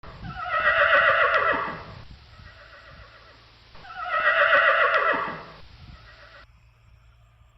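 Horse whinnying twice: two long, wavering calls about three seconds apart.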